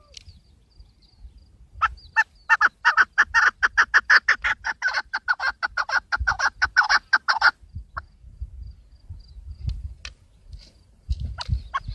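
Chukar partridge calling: a fast run of short, repeated chuck notes that starts about two seconds in and lasts about six seconds, followed by a few scattered notes near the end.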